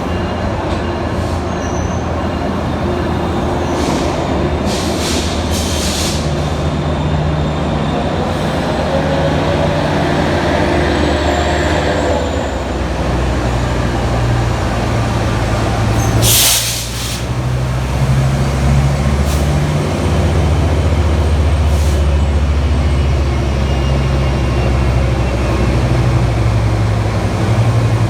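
Diesel passenger locomotive running at a station, its engine tones stepping up around 13 seconds in as the engine takes load. A short sharp hiss of air sounds about 16 seconds in.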